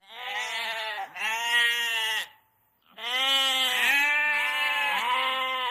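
Sheep bleating: several wavering bleats in two runs, with a short silent pause a little over two seconds in.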